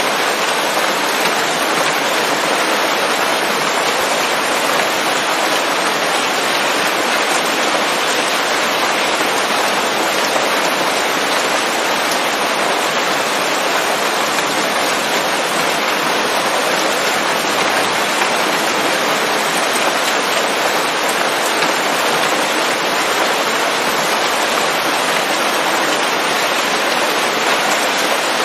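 Steady rain falling on leaves, an even, unbroken hiss of dense drops.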